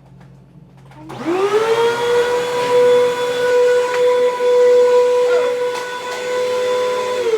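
Hoover WindTunnel 2 upright vacuum cleaner's 12-amp motor switched on about a second in, spinning up within a fraction of a second to a loud, steady whine. Near the end it is switched off and the whine begins to fall in pitch as the motor winds down.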